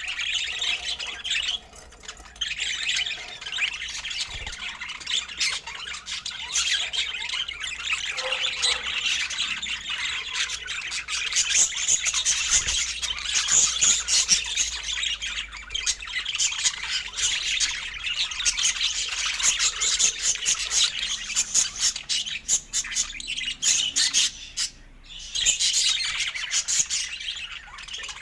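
Budgerigar chattering and warbling: a busy, continuous stream of squawks, chirps and clicks, with a brief pause near the end.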